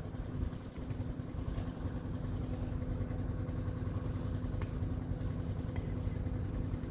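An engine running steadily at an even, unchanging pitch, with a low hum under it.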